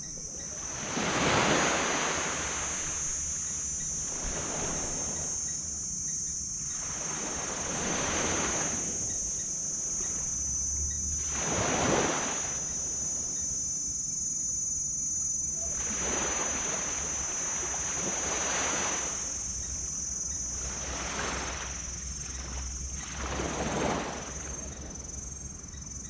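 Small tropical waves breaking and washing up on a sand beach, one surge of surf every two to four seconds, the loudest near the start and about halfway through. A steady high-pitched whine runs underneath.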